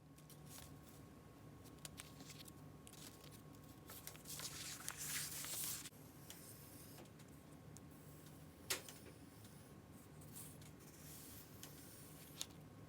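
Paper being handled and torn by hand, with a longer rustling tear about four to six seconds in and a few sharp clicks later, over a faint steady hum.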